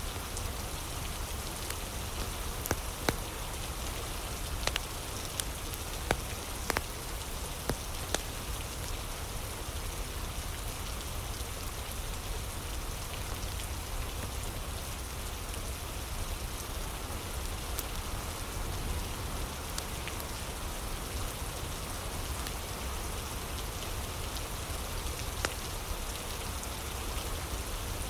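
Steady rain ambience mixed with a crackling fire, with a few sharp pops and snaps standing out, most of them in the first several seconds.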